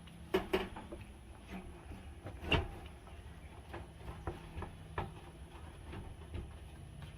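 Scattered clicks and knocks of handling as a portable tankless propane water heater is fitted onto its wall screws, the loudest knock about two and a half seconds in, over a low steady hum.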